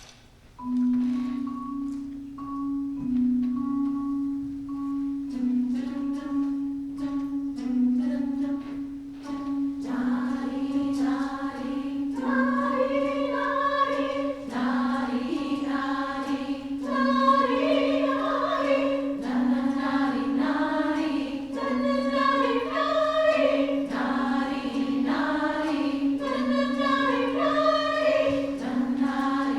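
Women's chorus singing with rhythmic percussion. It begins about a second in with a steady low sung line under short, repeated higher notes, and grows into a fuller, rhythmic texture from about ten seconds in.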